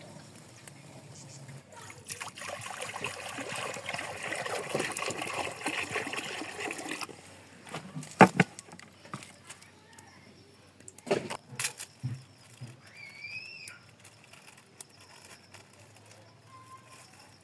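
Water pouring and splashing for about five seconds, then a few sharp knocks.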